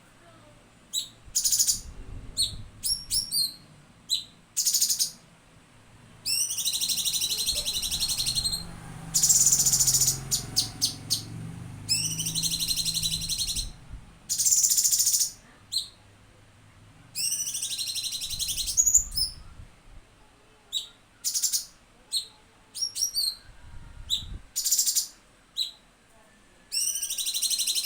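Cucak cungkok song: rapid high trilled phrases about a second and a half long, repeated every few seconds, with short sharp chips between them.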